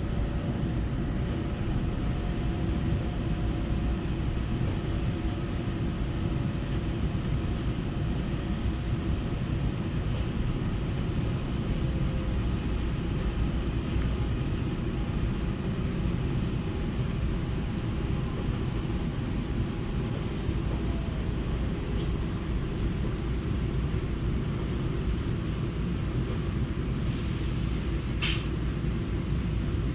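Cabin noise of a Taiwan Railway EMU900 electric multiple unit in motion: a steady low rumble from the wheels and track. Faint whining tones from the drive are heard for the first ten seconds or so, then fade.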